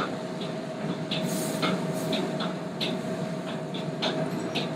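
Steady kitchen background hum with a faint constant whine, and light, irregular clicks and taps from handling the coated chicken and utensils.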